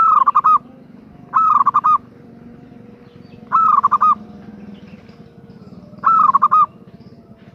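Female zebra dove (perkutut) calling: four short, loud calls, each a quick run of a few rapid coo notes, spaced a second or two apart.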